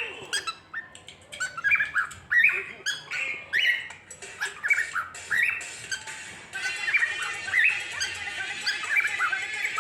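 A bird calling over and over in short notes that rise and fall, about two a second.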